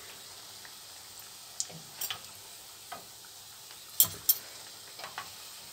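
Yoyo dough rings frying in hot oil with a steady sizzle. A few light clicks of a metal utensil against the pan break in, the sharpest about four seconds in.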